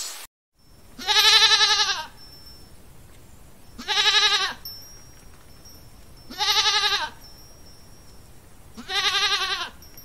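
Goat bleating four times, evenly spaced, each bleat a quavering cry under a second long, the first one the longest.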